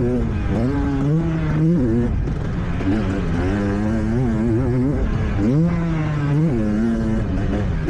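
Motocross bike engine revving and backing off over and over as it is ridden, its pitch rising and falling every second or so, with a sharp climb in revs about five and a half seconds in.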